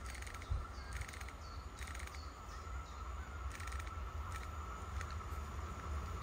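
Several short, harsh cawing bird calls, about a second apart, with faint small-bird chirps and a steady low rumble underneath.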